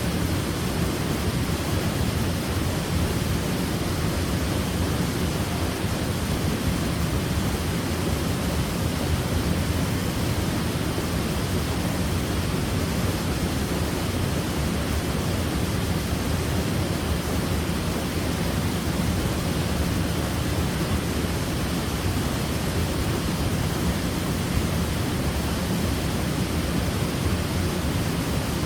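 Waterfall: a steady, unbroken rush of falling water, heaviest in the low, deep part of the sound.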